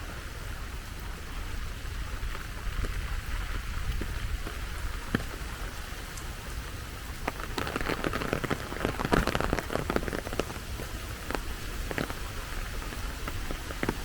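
Rain falling steadily, with many single drops ticking sharply close by. The drops come thicker and louder about halfway through, then ease again.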